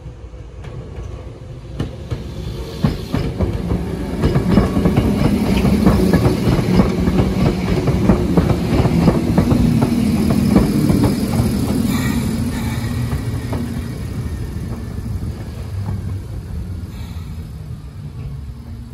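Hakone Tozan Railway 1000 series electric train passing close by: a running rumble with repeated sharp clacks from the wheels over rail joints and points. It builds up over the first few seconds, is loudest midway, then fades as the train moves away.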